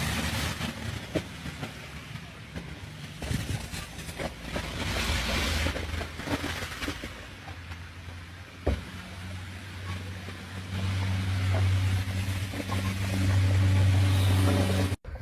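A motor vehicle's engine running, its low hum growing steadier and louder in the second half, with a sharp knock about nine seconds in.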